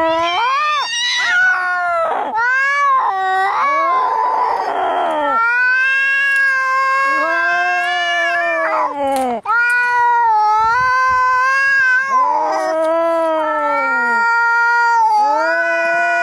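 Angry cats caterwauling in a fight: a run of long, drawn-out yowls that waver up and down in pitch, with a harsh hiss about four seconds in.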